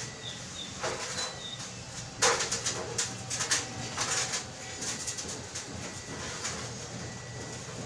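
Irregular sharp knocks and clinks, the loudest a little over two seconds in, over a steady low hum, with a few short high chirps in the first couple of seconds.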